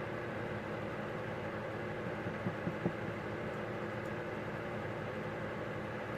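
A steady mechanical hum, like an engine or motor running nearby, with a few light clicks between about two and three seconds in, as small metal parts are handled.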